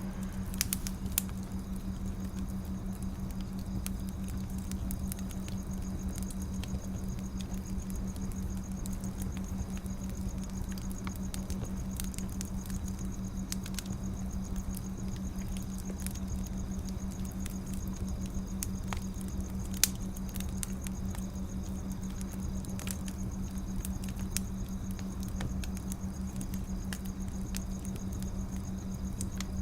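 Wood fire crackling: scattered small pops and snaps, with a sharper pop at about twenty seconds in, over a steady low hum and hiss.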